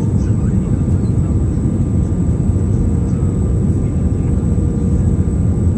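Airplane in flight heard from inside the cabin: a steady, loud low rumble of engine and air noise with a few faint steady whines above it.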